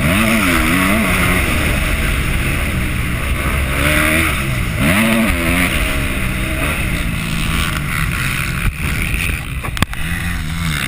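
Yamaha motocross bike engine revving up and down as it is ridden round the track, its pitch climbing and dropping twice, with a sharp knock near the end.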